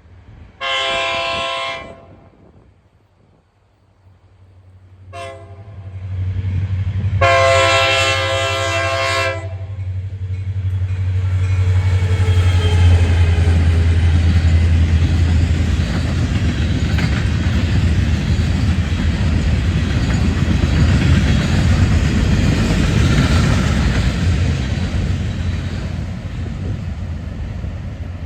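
Train horn sounding the end of a grade-crossing signal: a long blast, a brief short toot, then a longer blast. The train then passes close by, with a steady low engine rumble and the rush of wheels on rail.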